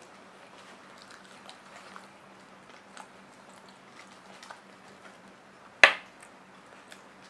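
Close-up eating sounds of someone eating fatty braised pork hock and rice by hand: soft scattered chewing and lip smacks, with one sharp, loud click about six seconds in.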